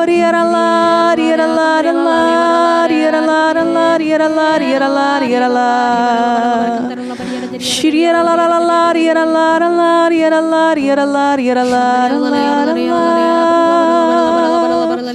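Slow devotional singing: a voice holding long notes that step from pitch to pitch, with a short breath about halfway through.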